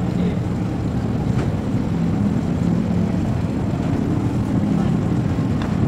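Two electric commuter trains approaching on parallel tracks: a steady low rumble with a faint motor hum.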